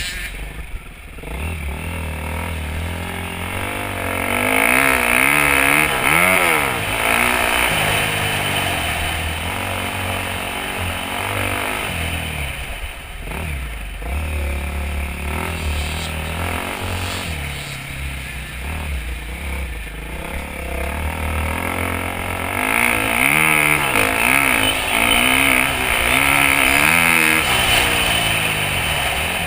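Dirt bike engine revving up and easing off over and over as the bike is ridden around a motocross track, with harder, louder pulls about four to seven seconds in and again near the end.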